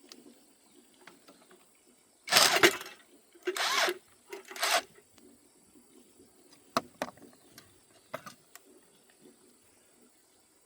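Three harsh bursts of about half a second each, then a few sharp clicks, from hand tools and metal parts being worked during tractor engine disassembly.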